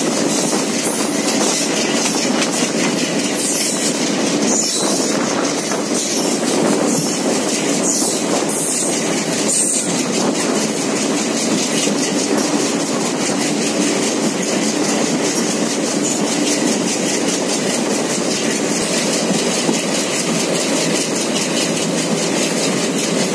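Train wheels running on rails: a steady rumble with the clickety-clack of wheels over rail joints, sharper and more frequent in the first half.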